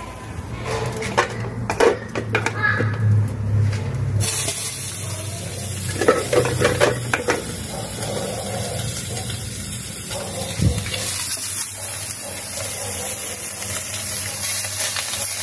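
Dried fish sizzling in hot oil in a frying pan: a steady hiss that starts abruptly about four seconds in, with a few clinks and knocks of chopsticks against the metal pans before it and again a couple of seconds later.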